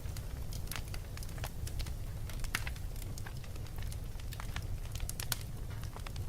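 Crackling fire: irregular sharp pops and crackles over a steady low rumble.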